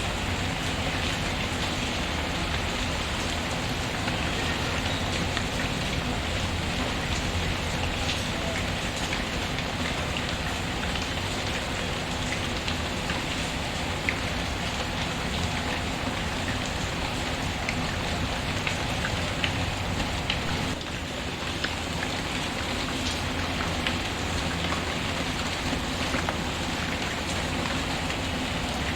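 Steady rain falling on a surface, with scattered sharp little ticks through it. It dips briefly about two-thirds of the way in.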